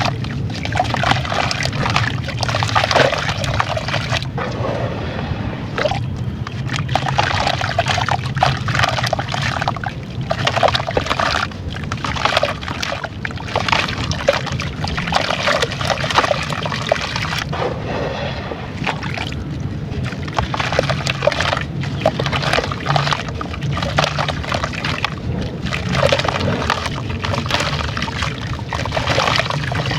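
Chunks of dried brown sand being dipped in water and crumbled: wet, irregular crackling and crumbling with sloshing water.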